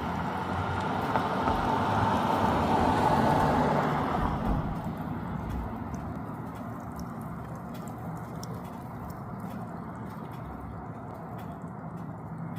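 A vehicle passing: a broad rushing noise that swells over the first few seconds and fades away. A steady low hum follows, with faint scattered ticks.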